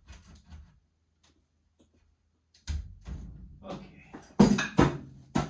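A few sudden knocks and clunks of work on the post and beam, starting a little over halfway through, with the loudest sharp strikes near the end.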